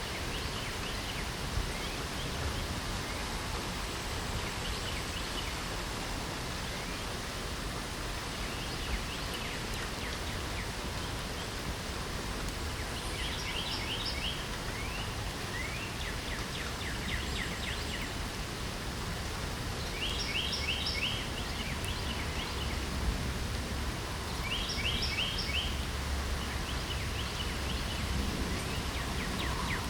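Steady hiss of falling rain, with a songbird singing short phrases of quick, falling notes that come back every few seconds from about the middle on.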